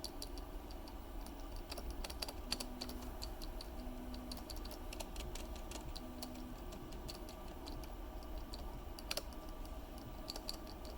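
Stabilized mechanical keyboard key, on a test plate with a 3D-printed wire stabilizer, pressed and tapped over and over: many quiet plastic clicks, several a second, coming in short runs.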